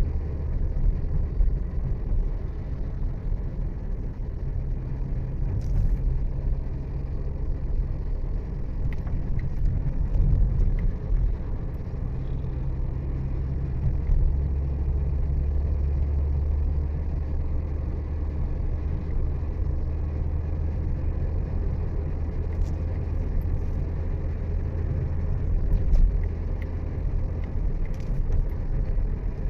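Steady low rumble of a road vehicle under way, engine and road noise running continuously with no marked change.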